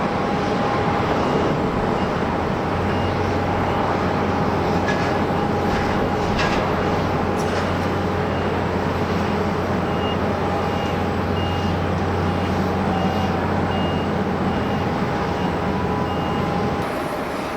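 Steady jet airliner engine noise at an airport, with a high electronic beep repeating about once a second until near the end.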